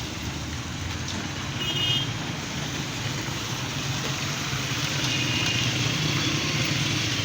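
Steady low rumble of a vehicle's engine and road noise under an even hiss. Brief high-pitched tones come through about two seconds in and again around five seconds.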